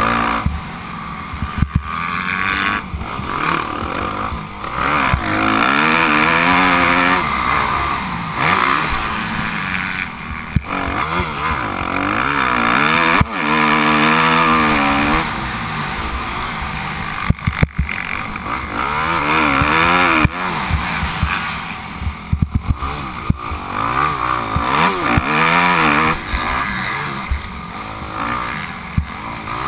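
Motocross bike engine revving up and falling back again and again as it is ridden hard through the gears, with rushing noise and a few sharp knocks.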